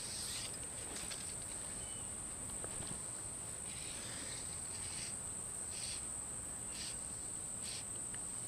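Insects calling: a steady, unbroken high-pitched trill, joined from about halfway through by short buzzy calls repeating roughly once a second.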